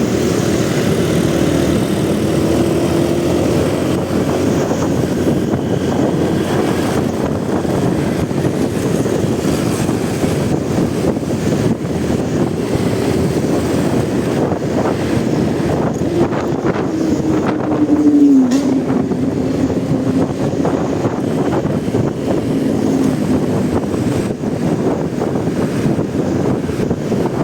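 Motorcycle ride in city traffic: an engine running under heavy wind and road noise, its note dipping once about two-thirds through.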